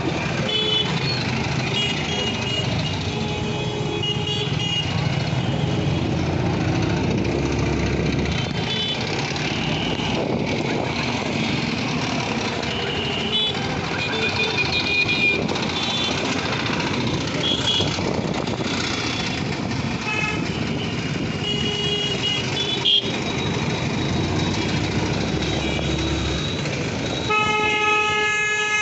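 Road traffic heard while riding through town: steady engine and road noise with many short honks from vehicle horns, and a longer, louder horn blast near the end.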